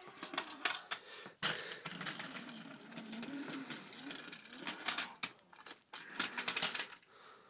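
Battery-powered TOMY toy train motor running with a wavering whir, its wheels clicking and clattering irregularly along plastic track.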